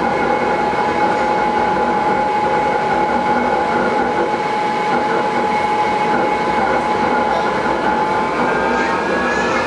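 Taipei Metro Wenhu Line Bombardier train running, a steady rumble with a loud whine of several held tones; near the end the whine starts to rise in pitch.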